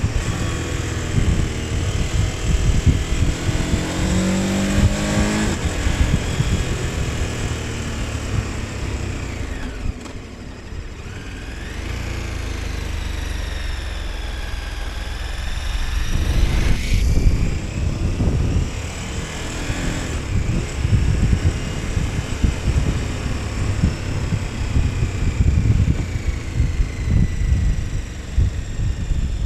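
KTM 1290 Super Adventure S's V-twin engine while riding, its pitch rising and falling with throttle and gear changes. It eases off and goes quieter about ten seconds in, then pulls hard again with a rising pitch from about seventeen seconds.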